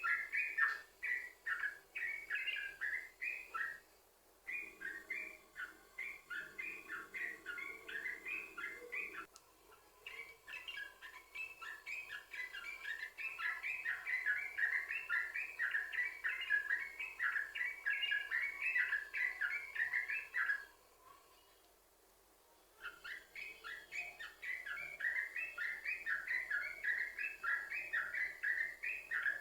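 Yellow-vented bulbul singing a fast, unbroken run of repeated chattering notes, the vigorous non-stop 'sambung ropel' song used as a lure to get other bulbuls to sing. The song breaks off briefly about 4 and 9 seconds in and pauses for about two seconds after 21 seconds.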